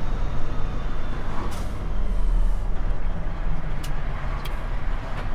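Semi truck engine running with a steady low drone, a brief hiss about one and a half seconds in and two short clicks near the end.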